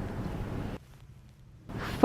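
Faint steady background hiss with no distinct sound, dropping away almost entirely for about a second in the middle: the gap between two spoken items.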